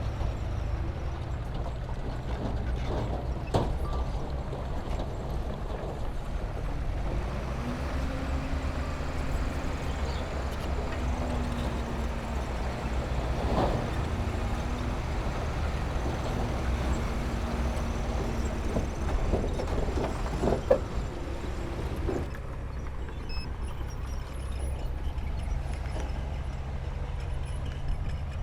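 Diesel engine of heavy earthmoving equipment running steadily, with a few sharp knocks and clanks of rock or metal along the way.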